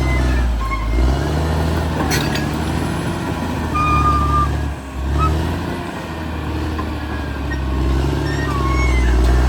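Caterpillar D6R XL bulldozer's diesel engine running under working load, its pitch and strength shifting a few times as the load changes. There is a single sharp clank about two seconds in.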